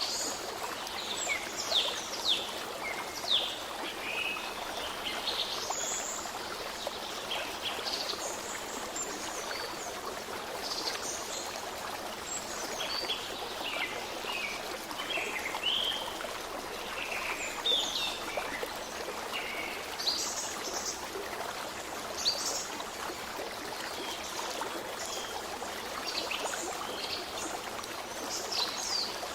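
Babbling stream with small birds chirping and twittering over it, many short quick calls throughout.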